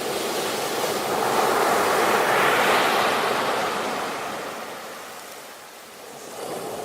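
Ocean waves breaking on the shore: one wave's wash swells to a peak about two to three seconds in, fades away, and the next wave starts to rise near the end.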